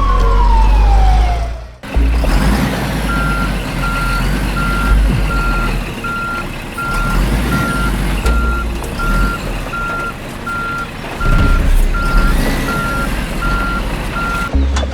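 A truck's reversing alarm beeping at a steady, even rate, about three beeps every two seconds, over a low engine rumble. For the first two seconds, before the beeping starts, a siren wails down in pitch and then cuts off.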